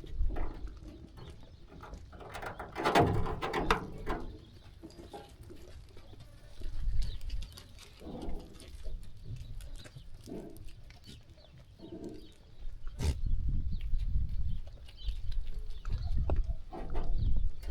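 Sheep bleating several times, loudest about three seconds in, with a sharp knock about 13 seconds in and low rumbling through the second half.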